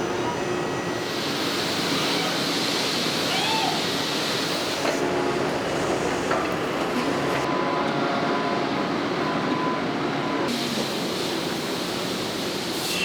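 Bearing-ring production machinery running in a factory: a steady, dense mechanical noise whose character changes abruptly a few times.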